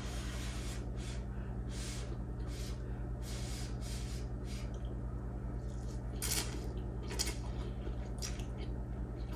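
A person eating noodles: scattered short, soft eating noises and light clicks, a few stronger ones about six and seven seconds in, over a steady low hum.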